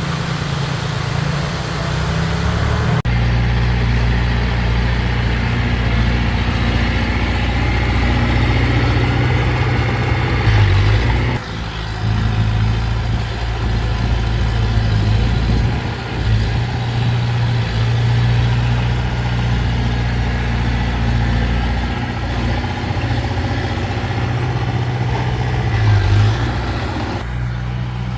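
Diesel engine of heavy earthmoving machinery running with a steady low drone. The sound shifts abruptly about three seconds in, again around eleven seconds, and near the end.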